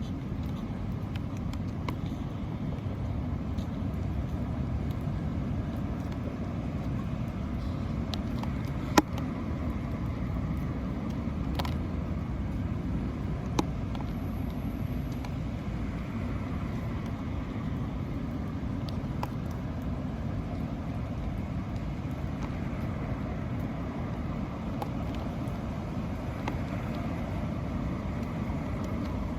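Steady low rumbling outdoor background noise with scattered sharp clicks or taps, one louder tap about nine seconds in.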